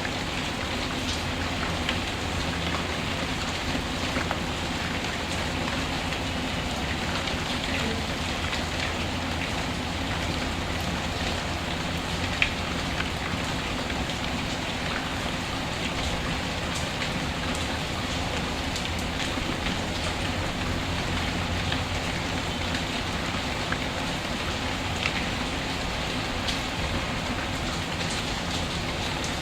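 Steady rain, mixed with a wood fire burning in a fireplace. A few sharp crackles stand out, the loudest about twelve seconds in.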